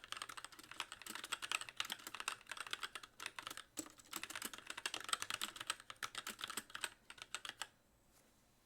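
Fast continuous typing on a Magicforce mechanical keyboard with very light linear Gateron Clear switches and stock keycaps, every key bottoming out with a sharp clack. There is a brief pause in the middle, and the typing stops a second before the end.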